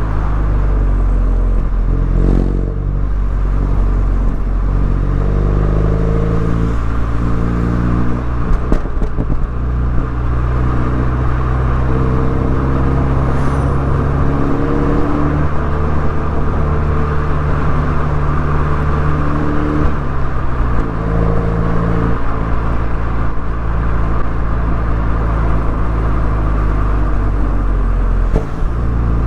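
MINI Cooper S engine and exhaust under way, the engine note rising and falling as it pulls through the gears and eases off for corners.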